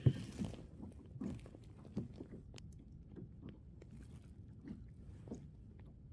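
Scattered light knocks and clicks at irregular intervals, the sharpest knock at the very start, over a faint low rumble.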